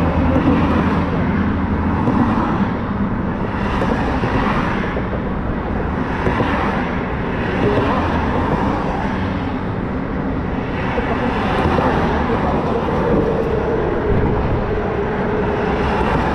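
Motorcycle on the move: engine and wind rushing past, steady with swells every couple of seconds.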